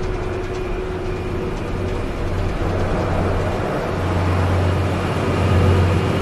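Motor vehicle engine running steadily on a highway with road noise, a strong low hum, growing louder over the last couple of seconds.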